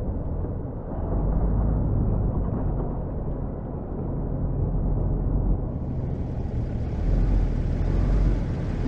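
Snow plow truck running, a steady low rumble. About six seconds in, a hiss joins.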